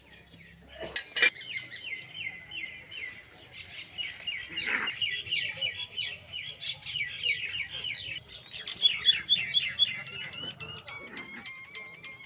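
Small birds chirping: a dense stream of quick, high, repeated notes, with a faster run of short calls near the end. A single sharp knock comes about a second in.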